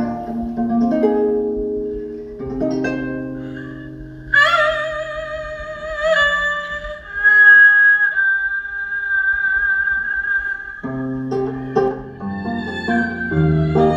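Korean traditional instrumental music: plucked-string notes, then from about four seconds in a daegeum (bamboo flute) plays a long, high held line with vibrato over sparse accompaniment. Plucked notes return near the end.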